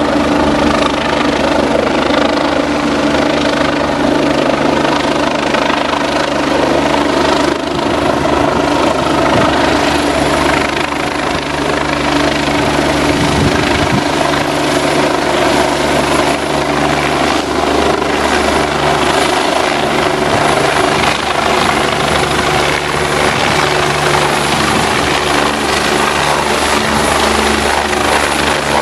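Life Star air-ambulance helicopter running loud and steady, an unchanging drone of engine and rotor.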